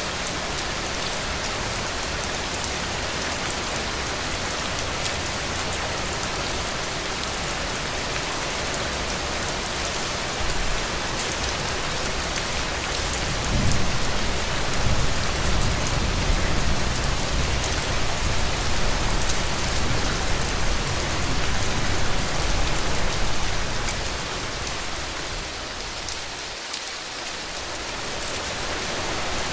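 Heavy rain falling steadily on a roof, an even hiss. About halfway through, a low rumble swells underneath and lasts around ten seconds, and the rain eases briefly near the end.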